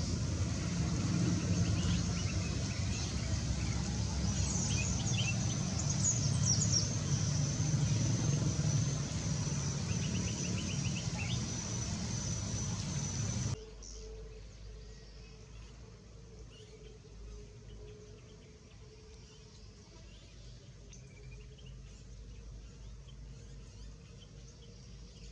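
Outdoor ambience around an aviary: small birds chirping in short calls over a steady low rumble and a thin, steady high whine. About halfway through the sound cuts to a much quieter background with only faint bird chirps.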